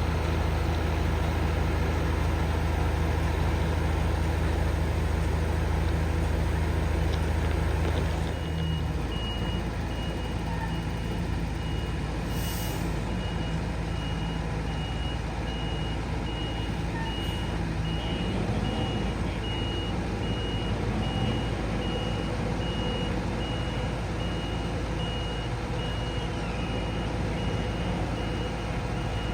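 A heavy work vehicle's engine running steadily; about eight seconds in the engine drops in level and a backup alarm starts, beeping in an even series as the vehicle reverses.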